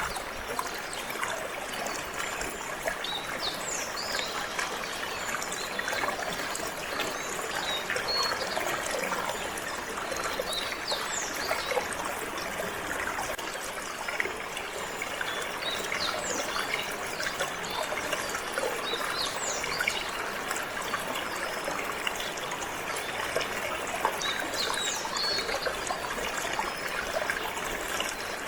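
Water flowing and trickling steadily over stones in a stream. Canaries give short, high chirps scattered throughout.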